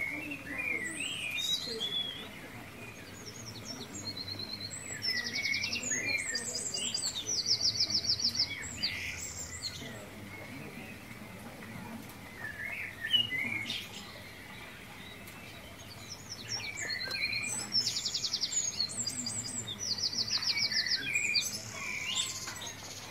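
Songbirds chirping and trilling: short high chirps mixed with fast rattling trills, in two similar runs of calls about twelve seconds apart.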